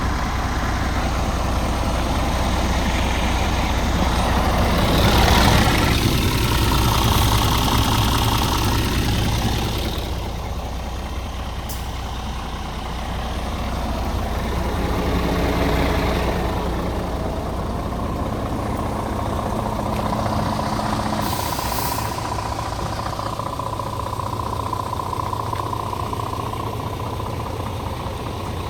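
Scania P 410 truck's diesel engine idling steadily, louder for a few seconds early on, with a brief sharp hiss of released compressed air a little past the middle.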